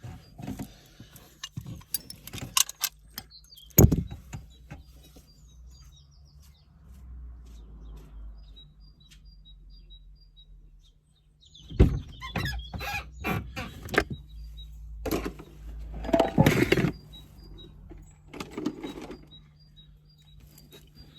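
Knocks, clicks and rustling of hands and tools working in a van's cab by the gear lever, loudest in two spells, the first few seconds and again from about twelve seconds in, over a faint low hum.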